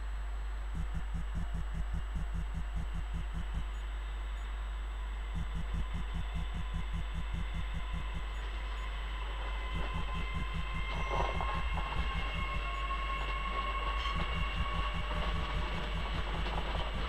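A steady low hum, then from about eight seconds in an electric passenger train rolling in on curved track: a high whine in several tones grows louder with its rumble, with a rattle of wheels over the rails about eleven seconds in.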